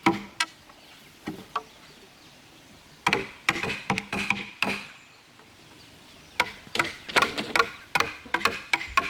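Quick series of hammer blows on wood, in two bursts about three and six seconds in, each knock with a short ringing tone.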